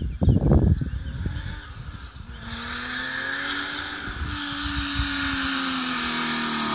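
Porsche 911 rally car's flat-six engine approaching at speed, its steady note and the hiss above it growing louder as it nears. Wind buffets the microphone with low rumbling in the first second or so.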